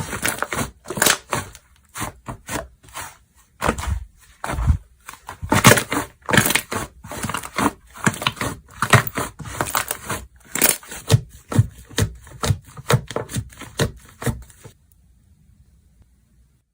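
Slime being squeezed and pressed by hand, with rapid, irregular popping and crackling clicks. It stops abruptly near the end.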